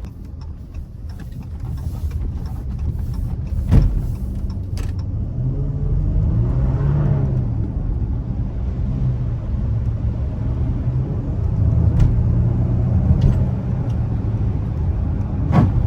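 Dodge Charger V6 engine running on the move, its pitch rising and then falling about six to eight seconds in. A few sharp knocks stand out, the loudest about four seconds in and again near the end.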